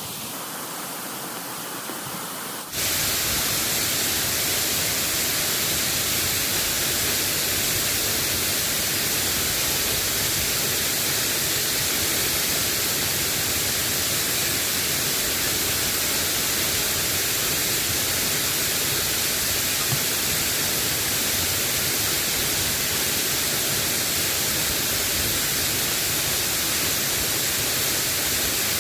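A soft steady hiss of light rain, then, about three seconds in, a sudden jump to a much louder, even, steady hiss that holds unchanged.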